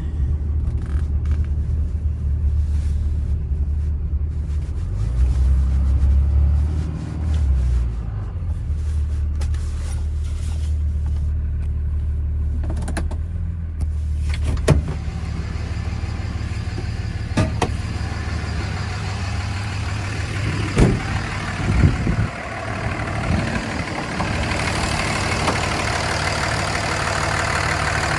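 Warmed-up 5.9L Cummins turbo diesel idling steadily with a deep low hum, during a blow-by test. A few sharp clicks and knocks come in the middle, and a louder hiss sets in near the end.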